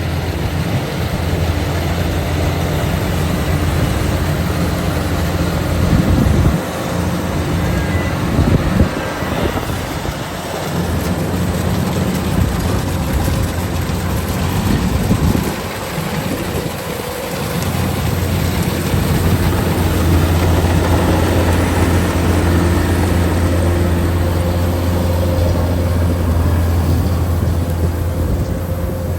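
Kubota DC-105X combine harvester running while cutting rice: a loud, steady low engine drone that eases briefly a few times.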